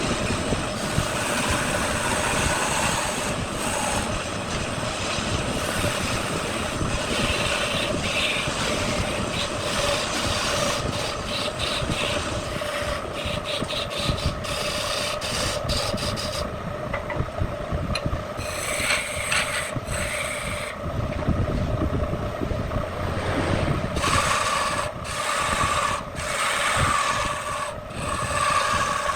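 Wood lathe running with a steady hum while a turning tool scrapes and cuts the spinning wood, with many short clicks and scrapes over the hum.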